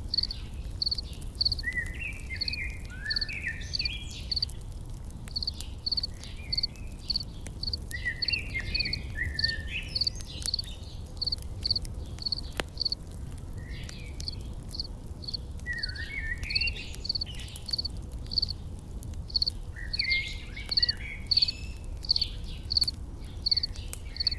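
Nature ambience: an insect chirping steadily at about two to three chirps a second, with songbirds twittering in short bursts every few seconds over a low rumble.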